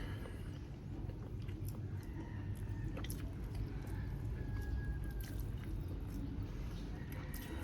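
A person chewing and biting grilled chicken close to the microphone, with scattered short wet mouth clicks over a steady low background hum.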